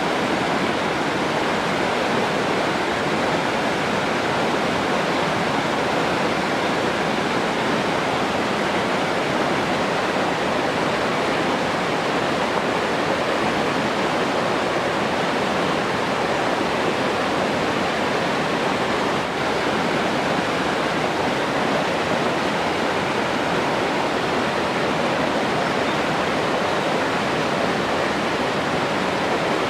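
Rushing water, a steady even hiss that keeps on without a break.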